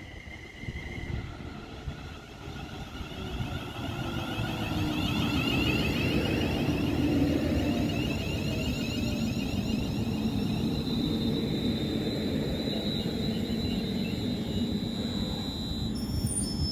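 A train approaching on the main line: a rumble that grows louder over the first six seconds or so, then holds steady with a high whine over it in the second half.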